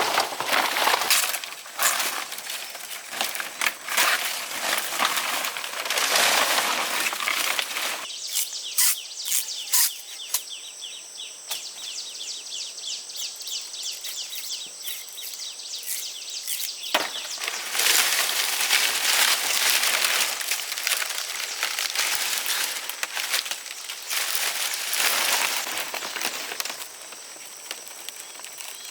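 Dry plant stalks rustling and crunching, with many small cracks. In the middle stretch it quietens to a fast, even high ticking, then the rustling and crunching return.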